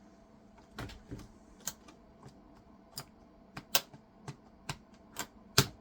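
Computer keyboard keys being pressed, a series of separate sharp clicks at uneven spacing that come faster near the end, as a freshly refitted keycap is tried out.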